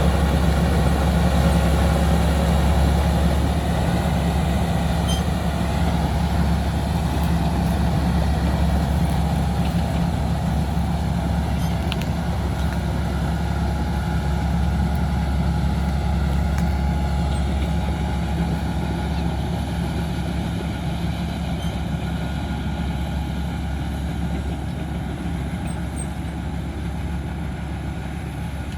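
Heavy diesel earthmoving vehicle engine running steadily with a deep hum, slowly fading over the course of the sound.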